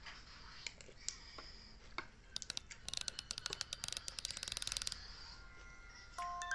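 A few scattered sharp clicks, then a fast, even run of clicks, about ten a second, lasting a couple of seconds, like a ratchet. Near the end a few bright chime notes begin.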